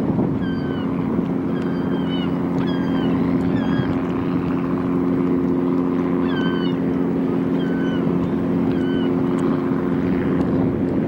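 A boat engine running steadily with a low, even hum, over which birds give many short calls, each dipping slightly in pitch, clustered most thickly in the first half and thinning toward the end.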